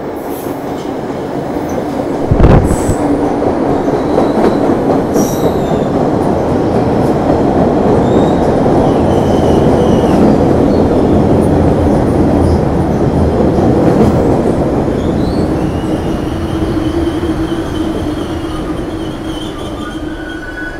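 A train going by: rail noise builds to a peak around the middle and then fades away, with a sharp thump a couple of seconds in. Faint wheel squeal rises in the later part.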